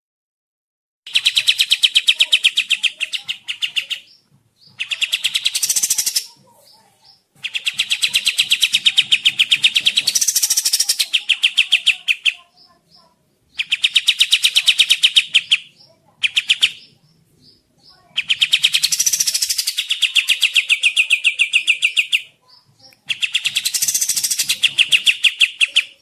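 Kapas tembak songbird singing its fast 'tembak' song, a rapid, evenly spaced rattle of notes. It comes in about seven bursts of one to five seconds, broken by short pauses.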